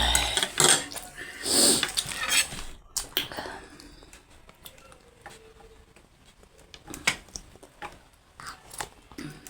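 Cutlery clinking and scraping against bowls and plates while eating, in short, separate clicks. It is busiest in the first few seconds, and a few sharp clicks come near the end.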